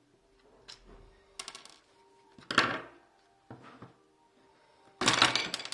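Small hard parts of a hot glue gun clicking and clattering as it is being taken apart, in a few separate bursts, the loudest about halfway through and a longer rattle near the end.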